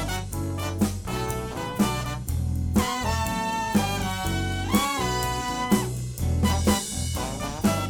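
A live soul band plays an instrumental passage: a steady bass line and drums accenting about once a second, under a held horn line that bends in pitch midway.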